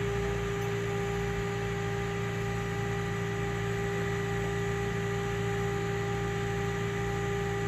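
A steady mechanical hum with a few constant tones over an even hiss, unchanging throughout.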